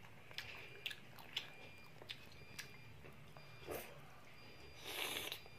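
A child biting and chewing chicken satay pulled off a skewer: scattered small wet clicks and smacks of mouth and teeth, with a longer hissing burst near the end.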